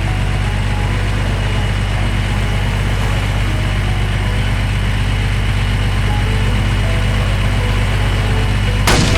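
Heavy construction vehicle's engine idling steadily with a low, even rumble. Just before the end a sudden loud, noisy crash cuts in.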